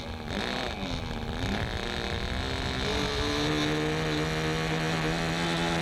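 Small model airplane engine buzzing, its pitch swinging up and down as the plane flies, with steady held tones coming in about three seconds in.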